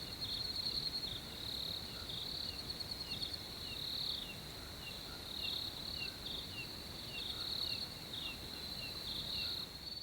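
Crickets chirping: a steady high trill that pulses in short runs, with a second insect's short falling chirps repeating about twice a second.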